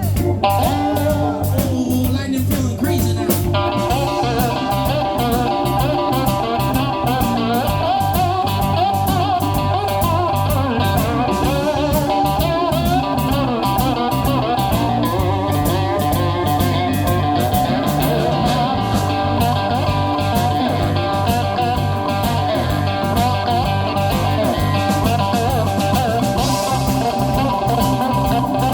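Blues on a slide cigar box guitar, played live, with wavering slide notes over a steady low drone.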